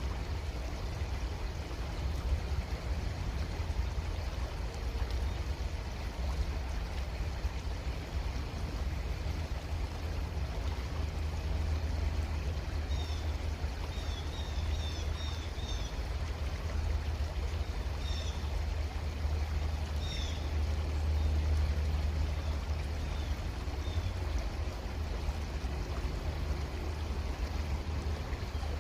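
Creek water flowing steadily over a low rumble. About halfway through a bird gives a quick run of short high chirps, then two more single chirps.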